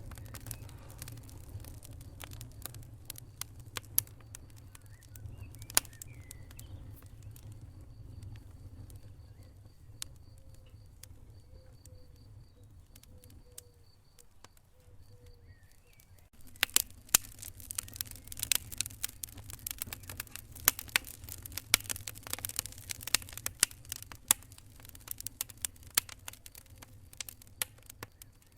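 Wood fire burning in a fireplace, crackling and popping with a low steady rumble. The crackles come thicker and sharper about halfway through.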